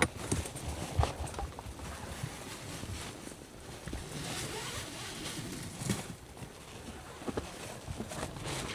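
Footsteps on a forest trail, irregular knocks and scuffs over a steady hiss of breeze.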